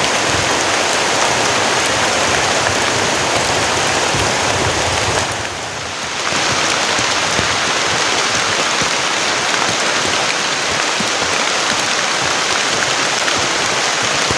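Heavy rain pouring down steadily, a dense, even hiss that dips briefly about five seconds in.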